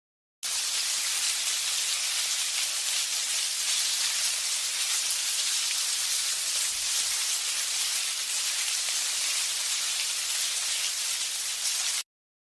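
A steady, even hiss like rain, starting abruptly about half a second in and cutting off just before the end.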